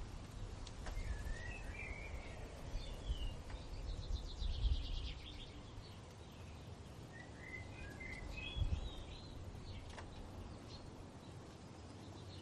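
Songbirds singing in short warbling phrases, twice, with a quick trill between them. Under them runs a low rumble of wind gusts.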